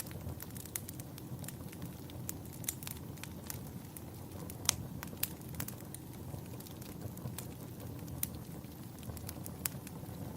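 Campfire burning with a steady low rumble of flames and irregular crackles and pops from the burning wood, a few pops louder than the rest.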